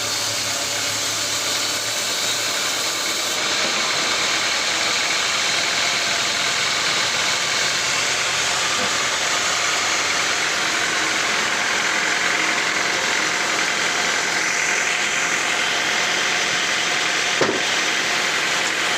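Sawmill machinery running steadily, a continuous mechanical noise with a single sharp knock near the end.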